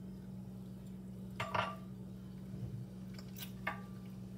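A person chewing a bite of oven-baked sweet potato fry, with two short mouth sounds, one about a second and a half in and one near the end, over a steady low hum.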